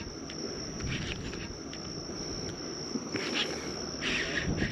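Steady high-pitched insect trill, like crickets, with a low wind rumble and brief rushing noises that come and go, strongest near the end.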